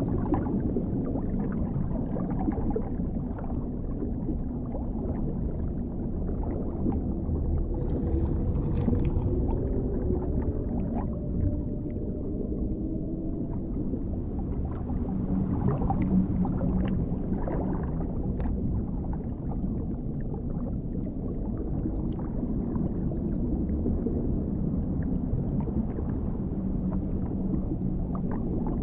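Underwater ambience: a deep, steady rumble with scattered small bubbling clicks, and faint low wavering tones that slide in pitch about a third of the way through.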